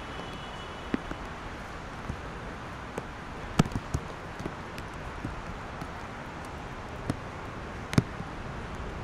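Steady hiss of rain and city traffic, broken by scattered sharp taps of raindrops striking close to the microphone, the loudest a little past three and a half seconds in and again at about eight seconds.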